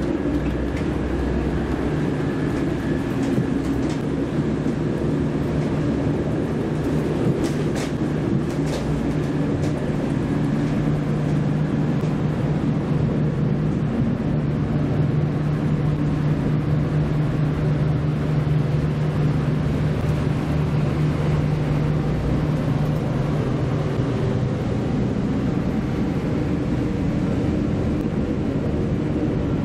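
Interior running noise of a V/Line Vlocity diesel multiple unit: a steady low drone with a held engine note that eases near the end, over the rumble of the wheels on the rails. A few faint clicks come about a quarter of the way in.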